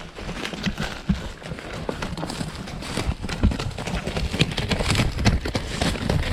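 Footsteps and rustling as a person moves on foot over dry ground and brush, in irregular steps that get louder about three seconds in.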